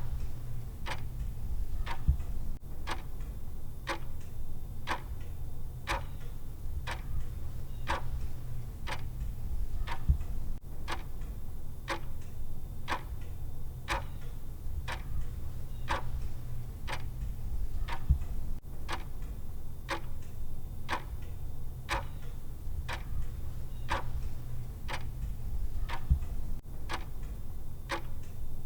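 Clock-style ticking of a countdown timer, even and regular at about two ticks a second, over a steady low hum.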